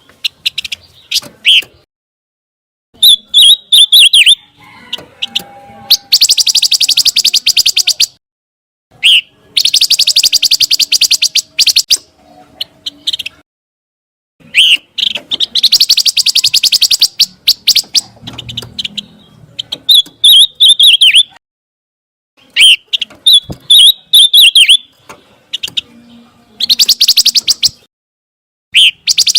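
Pancawarna songbird singing: repeated phrases of clear, wavering whistled notes alternating with long, fast buzzy trills, broken by short pauses.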